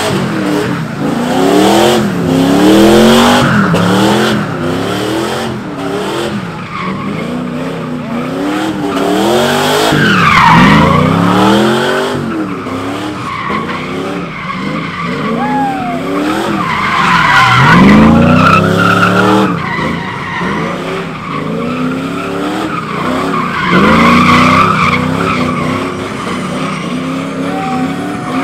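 Car engine revving up and falling back again and again, about once every two seconds, over a steady tyre squeal, as a car spins donuts.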